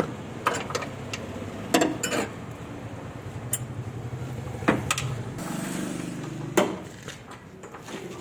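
Metal tools and parts clanking during car suspension work: a handful of separate sharp knocks spread out, the loudest about two-thirds of the way through, over a low steady hum.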